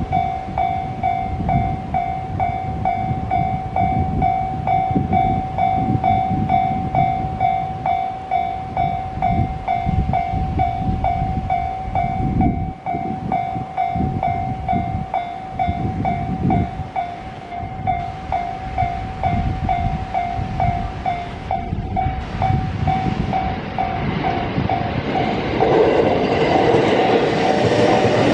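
A level crossing warning bell rings as a single electronic tone repeated about three times a second, over the low rumble of a 521 series electric train. Near the end the bell stops and the train's running noise grows louder.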